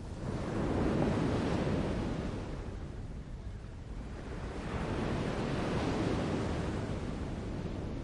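A rushing wash of natural noise that swells and fades twice, peaking about a second in and again around five to six seconds in.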